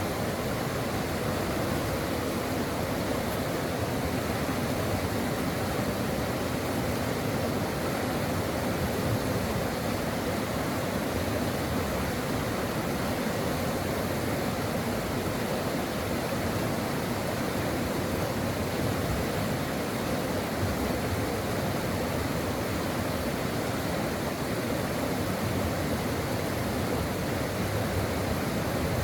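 A brook running steadily over rocks, a constant rushing and splashing of flowing water.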